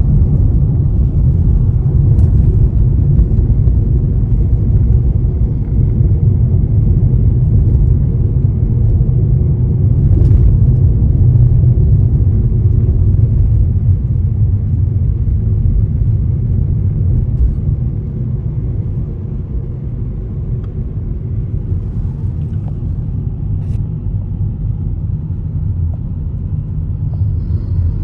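Steady low rumble of a car on the move: road and engine noise, easing slightly partway through.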